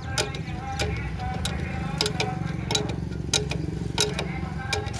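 Old stationary diesel engine running steadily with a low rumble, with a sharp regular click about every two-thirds of a second.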